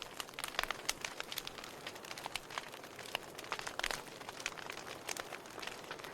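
Wood fire burning in a fireplace, crackling with irregular sharp pops and snaps, several a second, over a soft steady hiss.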